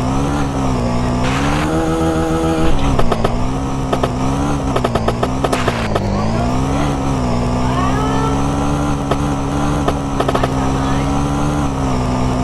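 Small moped engine running hard, its revs rising and falling over and over as it is ridden off-road, with a brief steady high rev about two seconds in. Sharp clicks and knocks come and go throughout.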